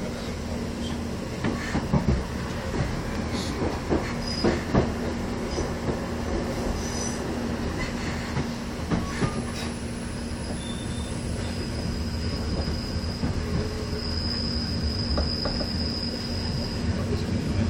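Passenger train running, heard from inside the carriage: a steady low rumble with a few sharp knocks in the first five seconds. A thin, high steady whine comes in about two-thirds of the way through.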